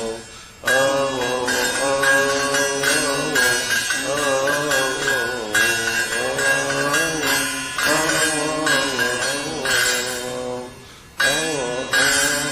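A man's solo voice chanting a long melismatic line of a Coptic hymn, held on drawn-out vowels, with metal percussion struck about once a second. The voice breaks off for a breath just after the start and again about 11 seconds in.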